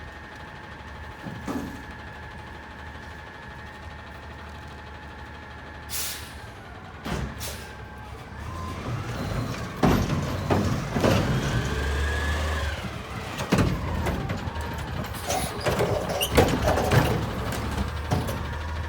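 Waste Management garbage truck with a Curotto automated arm: steady engine and hydraulic hum, a sharp air-brake hiss about six seconds in, then the engine and hydraulics rising and falling as a cart of heavy yard waste is lifted and dumped, with several loud bangs and knocks.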